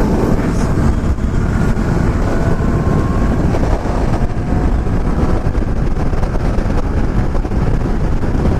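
Wind rushing over the microphone on a motorcycle riding at speed, with a faint engine note steady under it.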